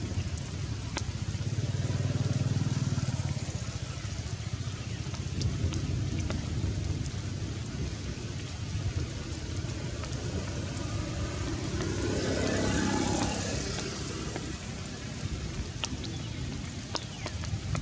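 Steady heavy rain falling, with scattered sharp drips. A low rumble swells about two to four seconds in, and a louder rushing swell comes about twelve seconds in.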